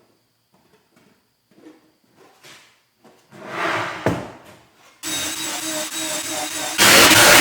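Light knocks and handling of plywood in a woodshop, with a sharp knock about four seconds in. Then a power tool's motor starts abruptly about five seconds in and runs steadily, much louder near the end.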